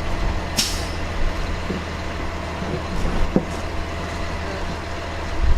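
Truck engine idling steadily, with a short sharp hiss about half a second in and a few faint knocks.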